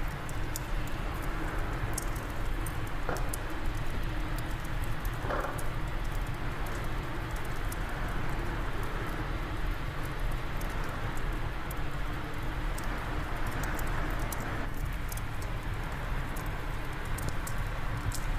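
Wind blowing steadily with a wood fire crackling over it: frequent small, irregular pops above a continuous rushing sound.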